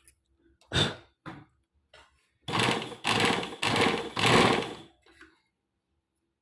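Dust being cleaned off the parts of an opened sewing machine: a knock and a small click, then four rushing strokes of about half a second each.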